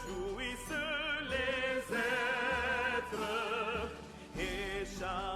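Background music: an operatic-style singing voice holding a series of notes with strong vibrato.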